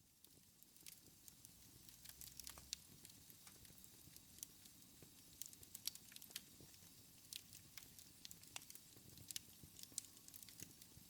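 Wood fire crackling in a fireplace: irregular sharp snaps and pops over a soft low rumble of the flames, quiet overall. It swells up from near silence over the first couple of seconds.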